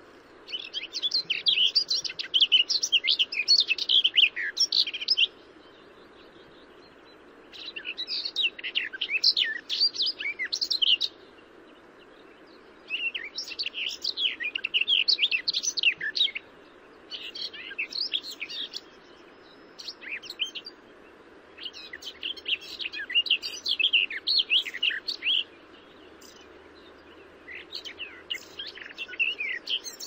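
A bird singing: rapid, twittering song phrases of a few seconds each, repeated about seven times with short pauses between, over a faint steady low hiss.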